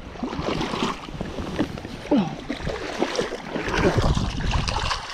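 Strong wind buffeting the microphone over the rush of a braided river, gusting and rumbling unevenly.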